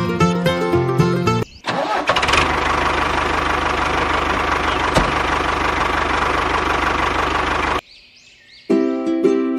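A motor vehicle engine starts and runs steadily for about six seconds, then cuts off suddenly. Plucked-string background music plays before it and comes back near the end.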